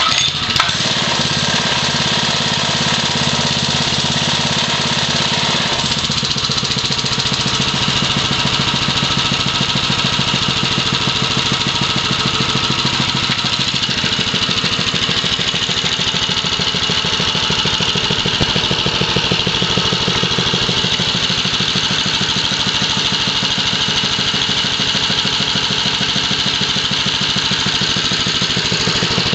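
Vintage mini bike's 3.5 hp Briggs & Stratton single-cylinder four-stroke engine running steadily, a lawnmower-type engine note.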